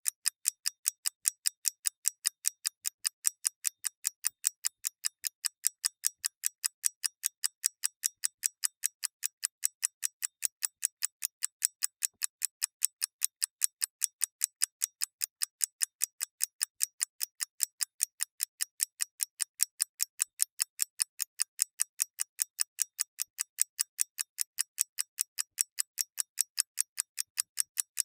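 Clockwork mechanism ticking steadily: crisp, high ticks, evenly spaced at about four to five a second, with no low thump.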